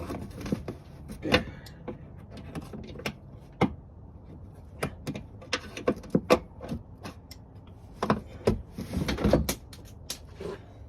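Irregular clicks, knocks and light rattles of hand work on car parts and tools, with a dense run of knocks about eight to nine and a half seconds in.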